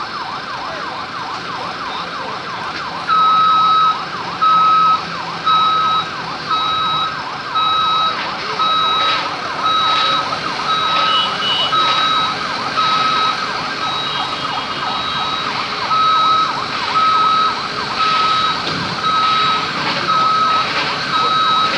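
A fast warbling emergency siren runs throughout. About three seconds in, a loud steady-pitched electronic beep joins it, repeating about once a second, like a vehicle warning or reversing beeper.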